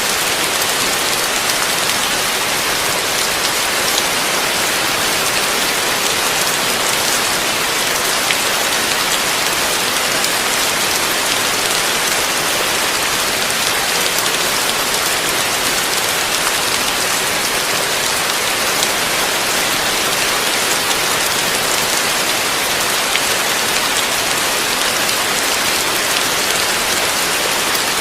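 Heavy rain falling steadily, a dense, even hiss of many drops hitting a surface, with no let-up or change.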